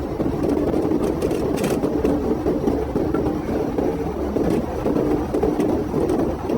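Steady engine and road noise heard inside a police patrol car's cabin during a high-speed pursuit, with the car under hard acceleration.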